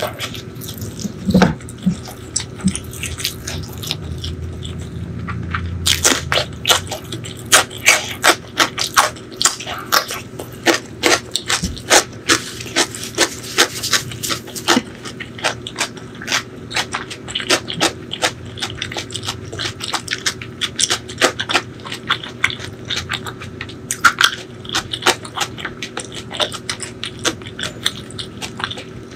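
Close-miked mouth sounds of a person chewing food, a rapid, irregular run of wet clicks and smacks. It is sparse and softer for the first few seconds, then dense from about six seconds in.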